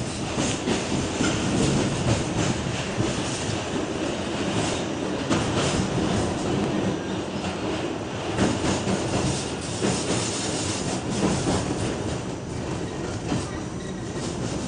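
New York City Subway R46 car running: a steady noise of wheels on track, with irregular clicks as the wheels pass over rail joints.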